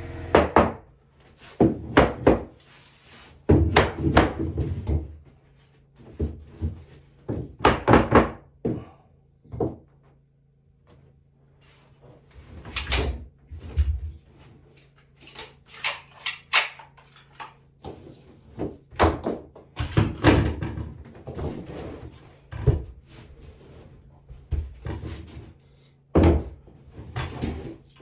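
Irregular knocks, thuds and clatters of wood being handled and fitted, coming in uneven clusters, with a short lull about ten seconds in.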